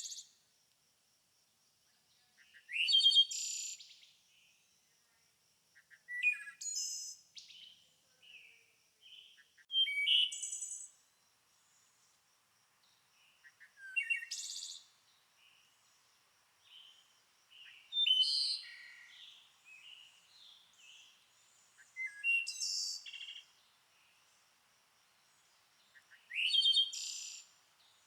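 A songbird singing short, varied phrases of quick whistled and chirping notes, one about every four seconds, with a faint steady high tone running underneath.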